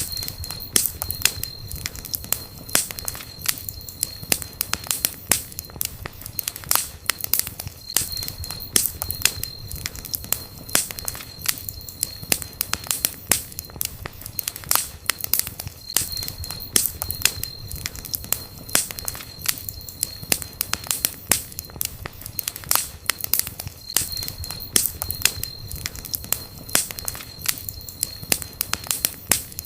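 Campfire burning: wood crackling with frequent irregular sharp snaps and pops over a low steady rumble of the flames, with a thin high tone that comes and goes in the background.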